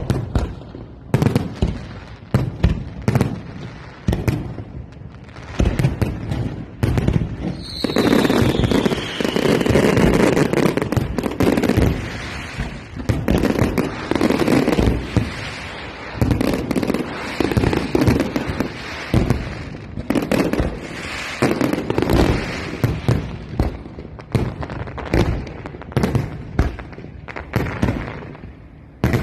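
Fireworks display: a rapid series of bangs and booms. About eight seconds in, a whistle falls in pitch, followed by a long stretch of dense crackling under continued bursts.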